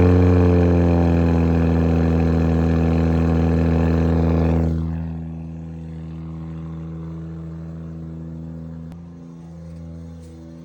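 Toyota Mark II engine just after a cold start, following weeks of sitting, settling from a rev into a steady idle. About five seconds in it turns much quieter and duller, its pitch unchanged.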